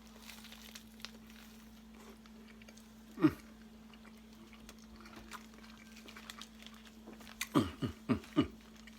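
A man chewing a mouthful of curry chicken roti. There is a short pitched wordless vocal sound about three seconds in and a few more near the end.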